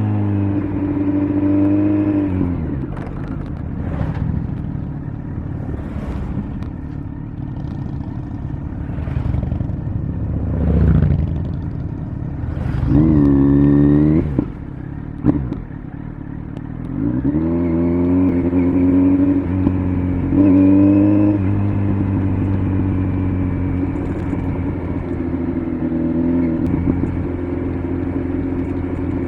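Kawasaki Z900's inline-four engine through an LCI aftermarket muffler, ridden on the road: the throttle closes about two seconds in and the engine runs lower, revs briefly around the middle, then accelerates through a couple of gear changes and settles to a steady cruise.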